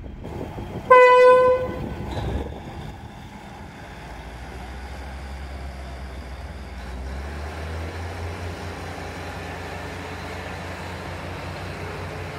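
Diesel passenger railcar sounding one short horn blast about a second in. Then its engine runs with a low rumble that grows louder and takes on a steady throb from about seven seconds in.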